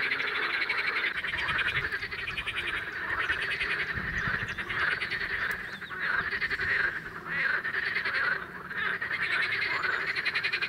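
Chorus of many male water frogs (common water frogs and pool frogs) calling over one another from across a pond, a dense rattling, pulsed croaking that never stops. These are spring mating calls, made louder by the males' inflated vocal sacs.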